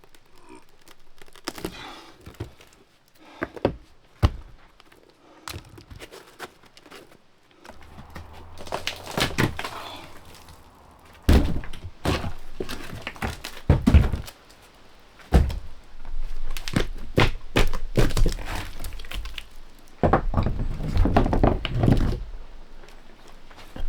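Hammer and pry bar working soft debris out of a wooden boat's bilge: irregular hard knocks and thuds against the hull, with scraping between the blows.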